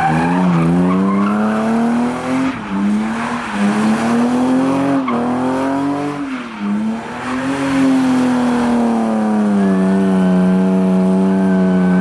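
An engine held at high revs with its pitch repeatedly rising and falling under the throttle, along with tire squeal, as from a vehicle doing a burnout or drifting. The pitch dips sharply three times in the first seven seconds, then holds steadier and high.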